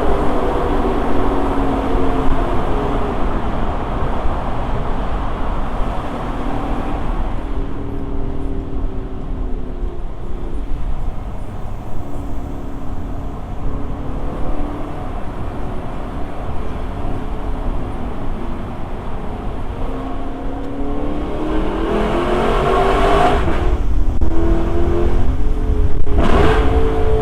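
Lexus LC500's 5.0-litre V8 running, its pitch rising and falling as it accelerates and eases off. It grows louder in the last few seconds, with two short sharp surges.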